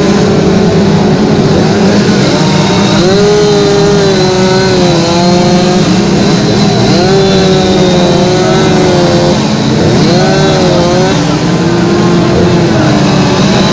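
Chainsaws running loud, with a steady engine note underneath while the saw pitch rises and falls every second or two as the saws are revved and cut into wood.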